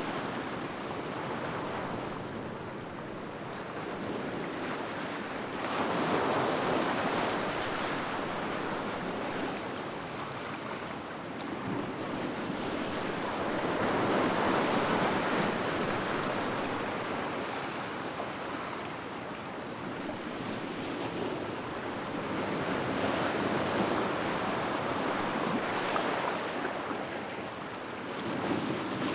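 Sea waves breaking and washing on a shore, rising and falling in slow swells every several seconds, with some wind on the microphone.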